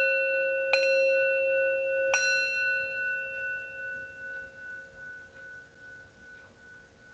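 Singing bowl struck twice, about a second in and again about two seconds in, each strike ringing on with several steady tones that slowly fade away.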